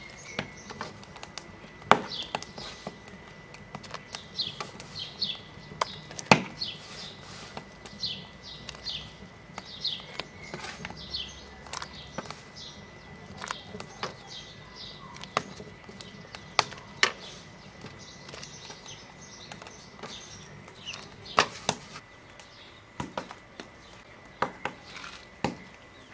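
Small birds chirping over and over, with a sharp knock or tap every few seconds, the knocks being the loudest sounds.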